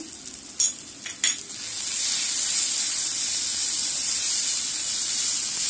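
Onion-tomato masala with red chilli powder sizzling in oil in a non-stick pan while a spatula stirs it. There are two short clatters of the spatula on the pan in the first second and a half. From about two seconds in, the sizzle turns into a louder, steady hiss.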